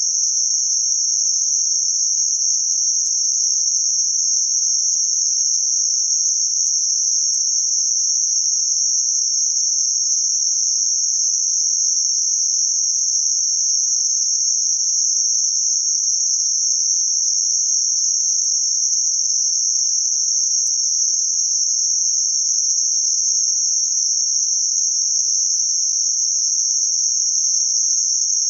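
Synthetic band-limited noise centred around 6051 Hz: a steady, high-pitched hiss that does not change.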